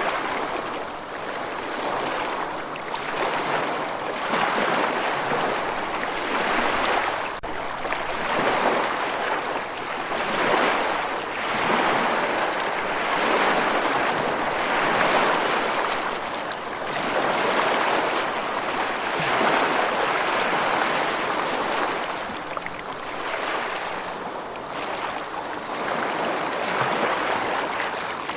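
Rushing water that swells and eases every two to three seconds.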